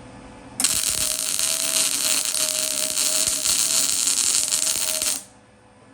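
Electric welding arc crackling steadily for about four and a half seconds. It starts abruptly about half a second in and cuts off suddenly near the end: a long tack weld fixing a baffle plate inside a steel exhaust tube.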